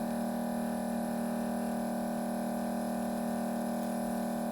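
Steady electrical hum made of several held tones, unchanging throughout.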